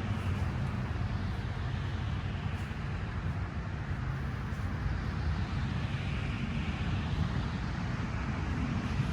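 Steady rumbling outdoor noise with no distinct events, a faint swell in the upper range about six to seven seconds in.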